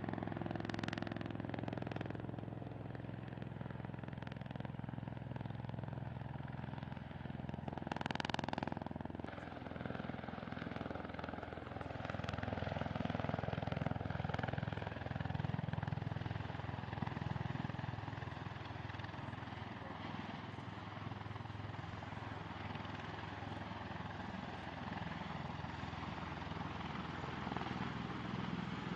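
V-22 Osprey tiltrotor's engines and proprotors running with a steady low drone. A brief louder sound rises over it about eight seconds in.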